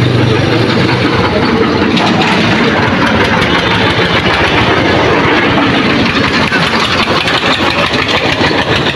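Powertrac 445 DS tractor's diesel engine running steadily at idle, a loud, fast, even knocking beat.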